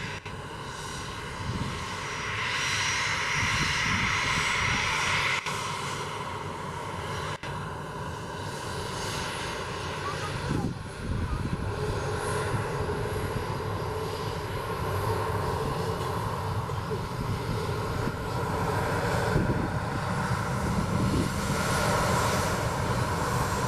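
Turbofan engines of a Boeing 737-300F freighter running: a steady rush of jet noise with a high whine over it.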